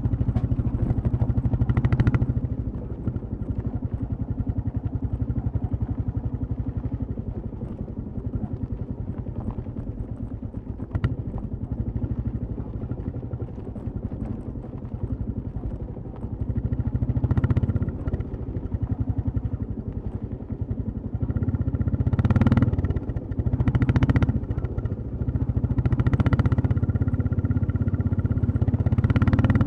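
Royal Enfield Classic 350 single-cylinder engine and exhaust running under way. The engine is quieter through the middle stretch and louder again in the last third, with several short, louder surges.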